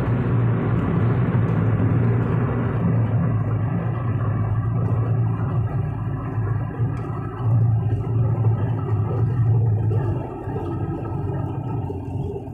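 Car driving: a steady low rumble of engine and road noise, easing off slightly about ten seconds in.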